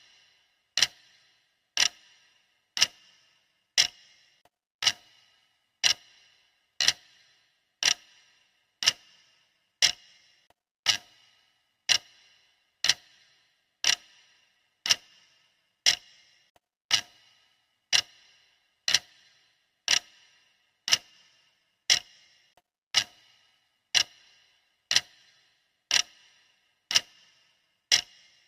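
Clock ticking steadily, about one sharp tick a second, each with a short metallic ring.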